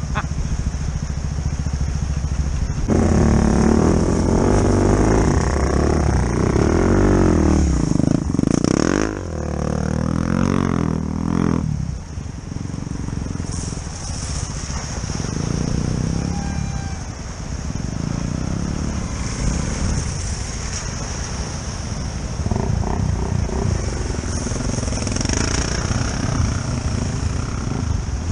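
Off-road motorcycle engines running close by as riders ford a rocky stream: from a few seconds in to about twelve seconds a bike revs hard, its pitch rising and falling, then the engines settle to a lower, uneven idle with short blips of throttle.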